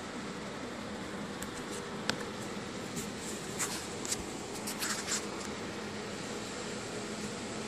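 Handling noise from a phone being moved around inside a car's rear wheel well: a few faint clicks and scuffs in the middle, over a steady background hum.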